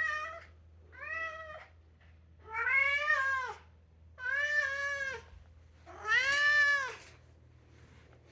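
Maine Coon cat meowing in a run of long, drawn-out calls, each rising and then falling in pitch, one about every second and a half, the owner's "singing". The calls stop about seven seconds in.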